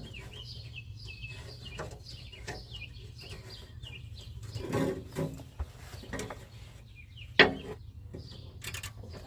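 Small birds chirping with a run of short, falling chirps, and a few sharp knocks and clinks from work on the car's exhaust hanger, the loudest about seven seconds in.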